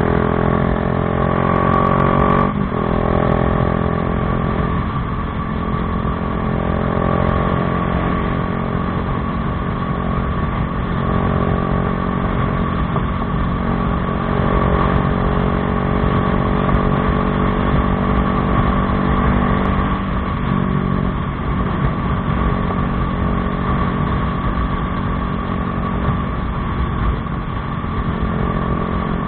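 Bajaj Dominar 400's single-cylinder engine running through an Akrapovič exhaust. Its pitch rises over the first couple of seconds and drops sharply, then holds fairly steady.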